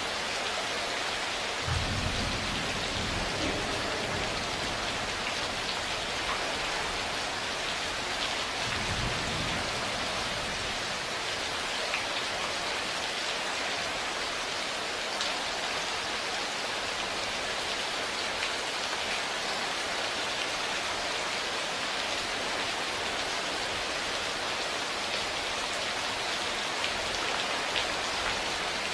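Steady rain pattering on a surface, with two low thunder rumbles: one about two seconds in, another about nine seconds in.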